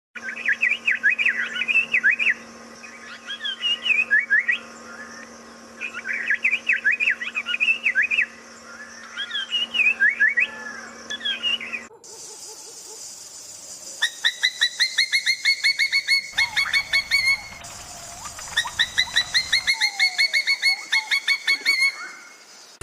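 Two separate recordings of birds singing. First, rapid phrases of chirps and whistled notes come in bursts of a second or two with short pauses. After a cut about twelve seconds in, a different bird repeats fast runs of clear, even whistled notes, each run lasting about two seconds.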